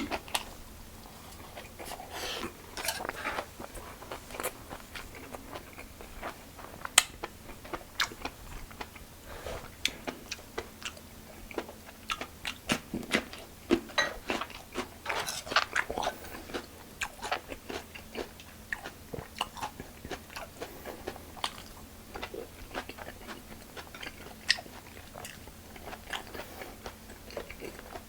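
Close-miked chewing and biting of food with crunchy mouthfuls, many short crisp clicks and crunches throughout.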